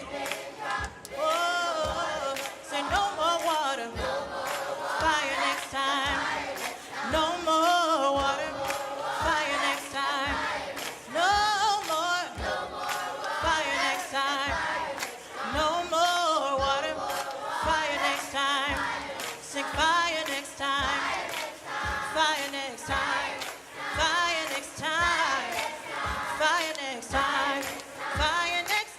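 Upbeat gospel song with a choir of mixed voices singing over a steady drum beat.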